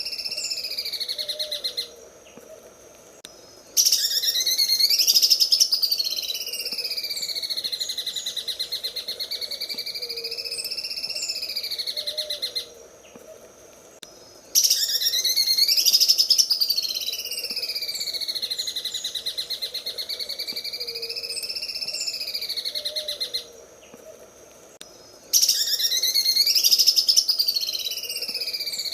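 Green leafbird (cucak ijo) singing its 'sewing machine' song: a fast rattling trill that weaves up and down in pitch like a running sewing machine. It comes in long phrases of about nine seconds, broken by pauses of about two seconds, and the same phrase repeats.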